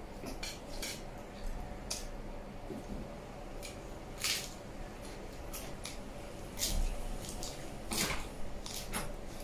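Close-up eating sounds: chewing with wet mouth clicks and smacks, a few louder smacks about four, seven and eight seconds in.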